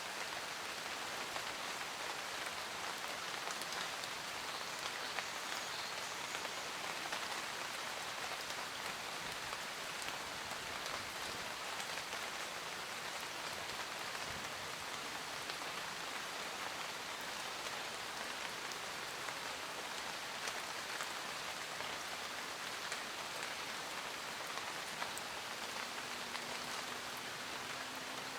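Steady rain falling, a dense even patter of drops with fine scattered ticks.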